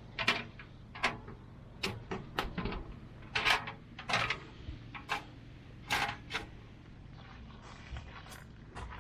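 Irregular clicks, knocks and brief rustles of objects being handled, about one to two a second.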